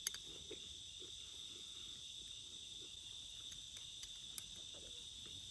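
A steady chorus of crickets, a constant high trill, with a few faint clicks.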